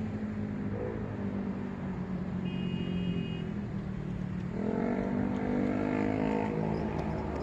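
City road traffic: car engines running steadily, with one vehicle accelerating about four and a half seconds in, its engine pitch rising.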